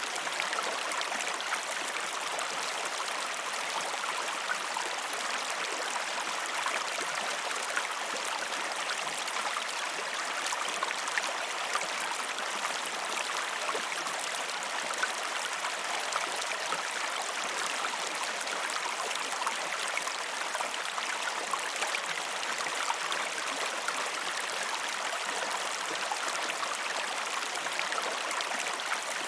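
Steady rushing of a river with a small waterfall: continuous splashing and babbling water with fine droplet detail, unchanging in level.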